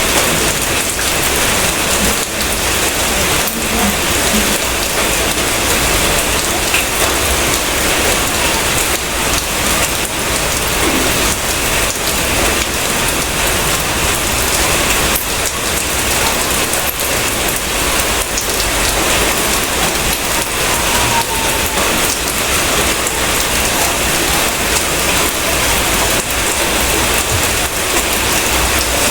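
Steady, fairly loud rain falling: an even, unbroken hiss with faint scattered drop ticks.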